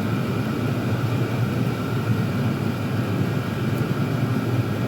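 Three Chinese diesel air heaters running at full power without their intake silencers: a steady, even blower and combustion hum.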